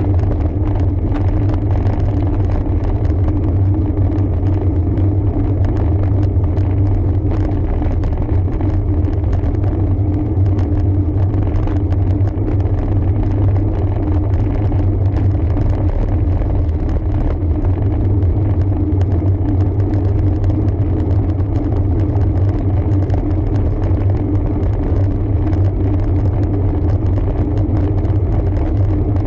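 Steady low rumble of riding a road bike, picked up by the bike-mounted camera, with an unchanging drone throughout.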